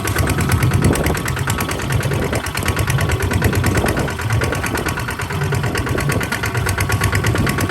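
Kubota RT140 DI single-cylinder diesel engine running steadily with a fast, even chugging knock.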